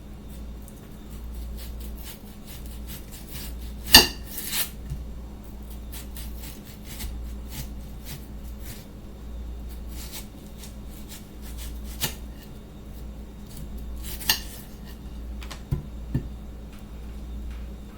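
Kitchen clatter: scattered knocks and clinks of utensils and dishes, over a steady low hum. The loudest knock comes about four seconds in, and another sharp one comes near fourteen seconds.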